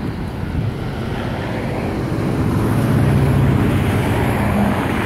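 An engine approaching: a low hum and a rushing noise grow steadily louder, the hum strengthening about halfway through.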